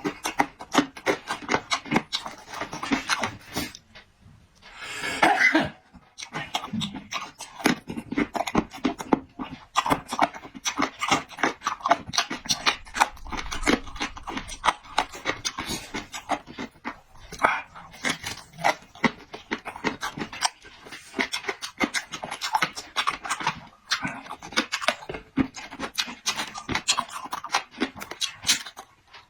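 A person eating close to the microphone: rapid, irregular wet chewing and lip-smacking, with a longer breathy rush of air about five seconds in and a few short pauses.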